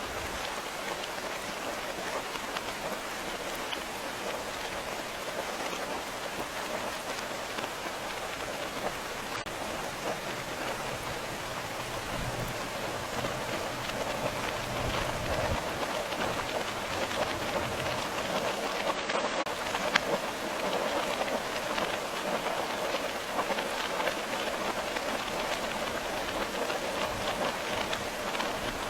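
Steady rain falling, a dense even hiss of drops, with a low rumble swelling under it about halfway through.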